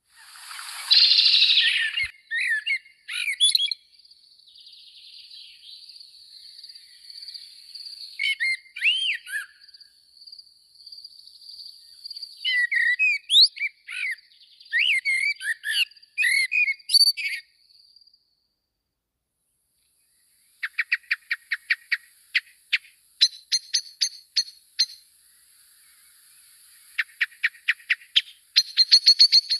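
Small birds chirping and calling, in bursts of short notes and quick rapid runs, with a thin steady high note beneath for the first half. A harsh noisy burst about a second in is the loudest sound.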